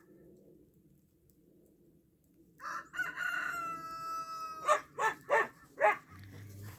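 A rooster crowing: one drawn-out call held on a steady pitch, then a run of four short, loud calls.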